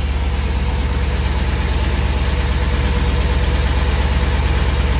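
Corvette V8 engine idling steadily with an even low pulse, running on its first start after sitting ten years.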